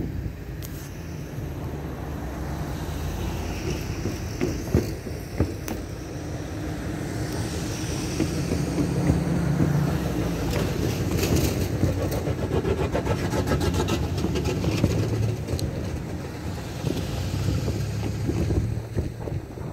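Coal train cars rolling away down the track: a steady rumble, with a run of rapid clicks from the wheels on the rails in the middle, easing off near the end.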